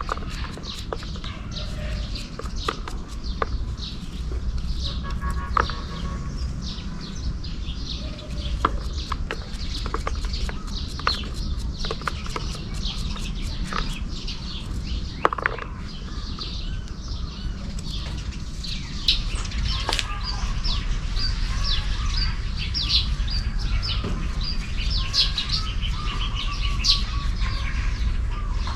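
Many small birds chirping in quick short notes, growing busier about two-thirds of the way through, over scattered sharp clicks and a steady low background noise.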